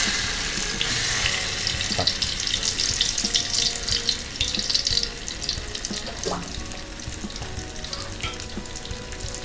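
Thai red curry paste sizzling and crackling in hot vegetable oil in a metal wok over low heat. This is the first stage of frying the paste, before it is stirred. The crackle is densest at first and eases a little later on.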